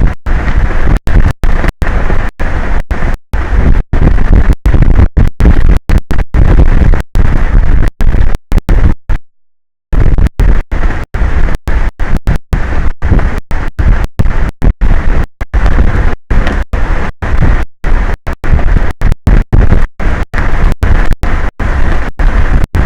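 Strong wind buffeting an outdoor camera microphone: a loud, rough rush strongest in the lows. The sound cuts out briefly many times, with one longer gap about nine seconds in.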